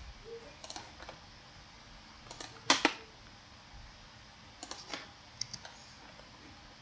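Computer mouse clicking several times while drawing in CAD software: short, sharp clicks, some in quick pairs, the loudest about midway.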